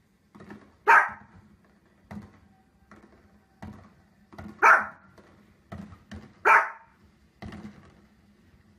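A fluffy dog barking: three loud, sharp barks, about a second in, near the middle and at about six and a half seconds. It is barking at fireworks on the television.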